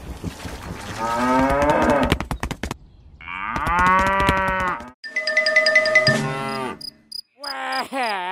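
Cattle mooing, a dubbed sound effect: a rising moo about a second in and a longer moo from about three to five seconds. A short pitched effect with quick, even ticks follows, and another wavering call starts near the end.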